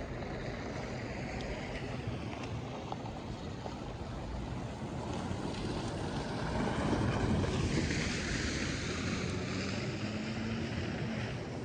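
A vehicle driving past on a slushy street: tyres hissing through wet slush over an engine hum. It grows louder about six seconds in and eases off near the end.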